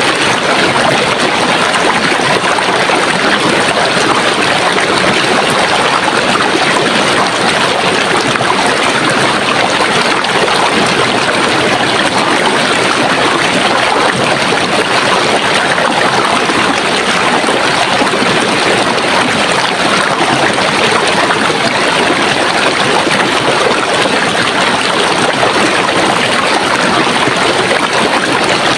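Running water in a stream, a steady, even rush with small trickling and splashing.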